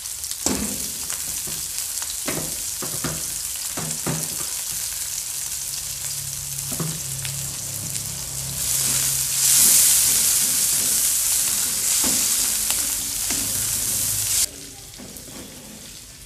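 Dried anchovies with chopped garlic and shallot sizzling in hot oil in a wok, with scattered knocks of a spatula. The sizzle grows louder a little past halfway, then drops off abruptly near the end.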